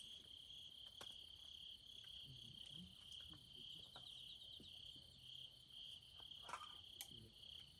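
Crickets chirping in a steady, high, faintly pulsing trill, with a couple of faint sharp clicks about a second in and near the end.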